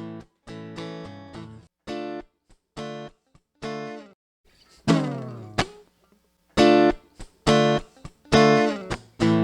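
Acoustic guitar playing an intro: short strummed chords with pauses between them, getting louder and fuller about two-thirds of the way through.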